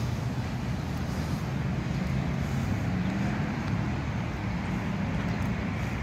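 Steady low engine rumble over road traffic noise, with the engine pitch rising slightly about two and a half seconds in as a vehicle accelerates.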